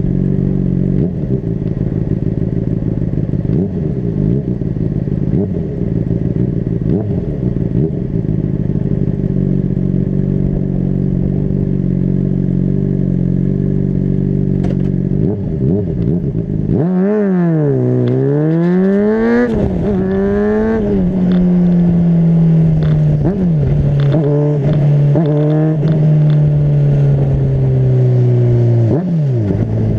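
Honda CBR600RR's inline-four engine running at a steady speed under a low wind rumble. About two-thirds of the way through the rumble drops away and the revs fall and rise several times, then hold and slowly sink, dipping near the end.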